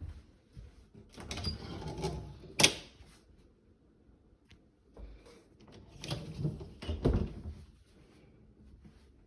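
Two spells of rustling and bumping, each with a sharp click, the first click the loudest.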